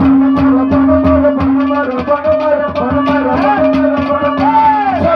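Haryanvi ragni accompaniment playing an instrumental passage between sung lines: a steady held note and a melody over quick hand-drum strokes.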